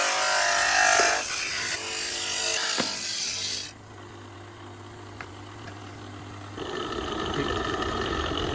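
Factory power tool running loud against a workpiece for about three and a half seconds, then a steady low machine hum. Near the end a second machine starts, a noise carrying a few steady tones.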